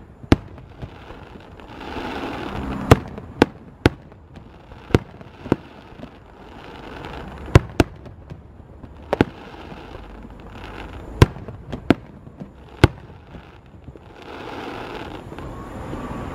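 Fireworks display: aerial shells bursting overhead, about a dozen sharp bangs at uneven intervals, some in quick pairs. Softer stretches of noise swell between the bangs.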